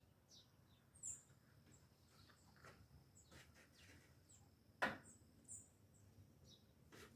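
Faint ambience with a few short, high bird chirps and a thin steady high tone. A single sharp click about five seconds in is the loudest sound.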